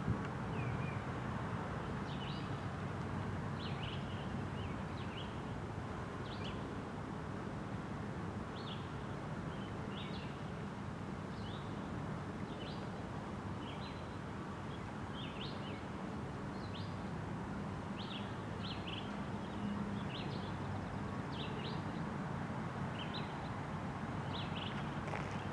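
Freight cars of a trash train rolling past, a steady rumble of wheels on the rails. Birds chirp in short calls again and again over it.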